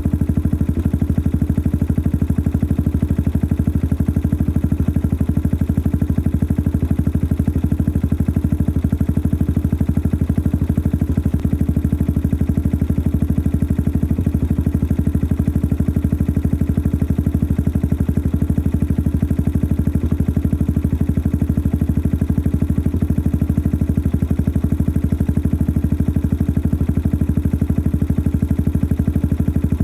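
Yamaha XT 600 43F's single-cylinder four-stroke engine idling steadily through a modified stock exhaust, a noisy engine with an even, fast beat that holds the same speed throughout.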